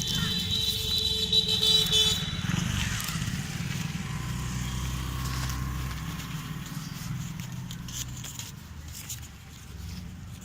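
Road traffic: a vehicle horn held for about two seconds at the start, then the low hum of vehicle engines passing and fading.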